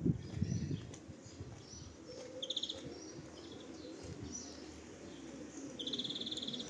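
Small birds chirping, with short high chirps throughout and a rapid buzzy trill twice, briefly about two and a half seconds in and again near the end, over a steady low background hum.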